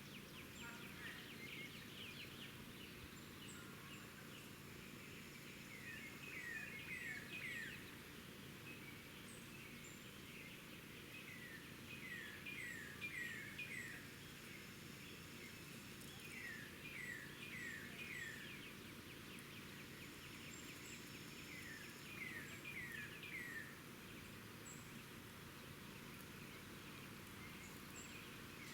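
A songbird singing a short phrase of four or five quick falling notes, repeated about every five seconds, with faint high chips from other birds.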